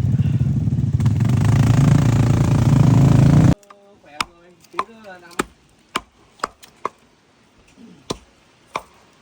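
An off-road vehicle's engine running steadily and loudly, cut off abruptly about three and a half seconds in. A series of sharp, irregular knocks follows over a quiet background.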